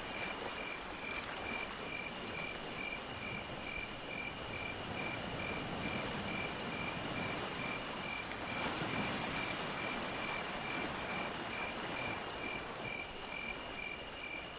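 Insects, crickets among them, calling together: one chirps evenly about two or three times a second, and a higher, thin trill runs in stretches of a few seconds with short breaks, over a soft, steady hiss.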